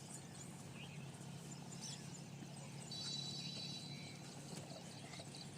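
Small birds chirping, with one longer whistled call midway, over a steady low hum.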